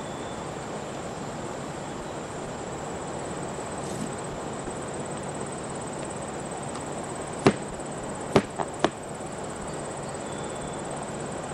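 Steady outdoor background hiss with a thin, high, steady tone, broken about two-thirds of the way through by four sharp clicks in quick succession.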